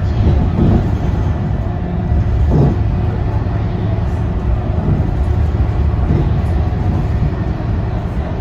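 Scania K230UB single-deck bus running under way, its diesel engine and drivetrain giving a steady low rumble with a few brief rattles.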